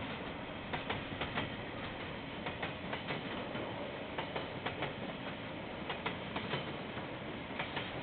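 KiwiRail train rolling past, its wheels clicking over rail joints in close pairs, about two clicks a second over a steady rumble. Heard through a security camera's microphone, which cuts off the high end.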